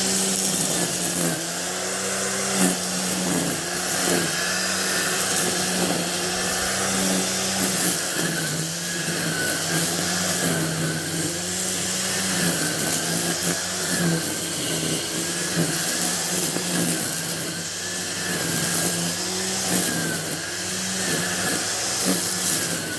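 An engine running steadily, its pitch stepping down and back up every few seconds as the load changes.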